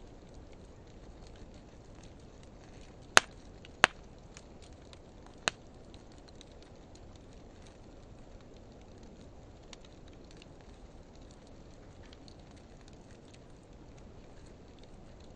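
Wood fire of driftwood and dry hardwood burning with a steady low rush and faint scattered crackles. Three sharp, loud pops from the burning wood: about three seconds in, again under a second later, and once more about a second and a half after that.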